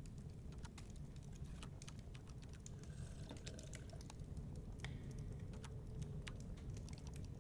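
Wood fire crackling with irregular sharp pops and snaps, over the steady low rumble of blizzard wind.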